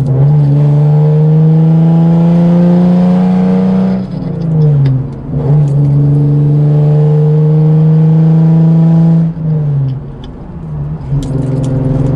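Hyundai Genesis Coupe 3.8 V6 accelerating through the gears, heard from inside the cabin: the engine note rises steadily as it pulls and drops sharply at upshifts about four and nine seconds in. A few light clicks come around the shifts.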